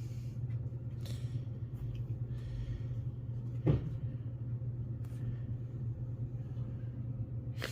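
One sharp knock about four seconds in, over a steady low hum and faint light rustling.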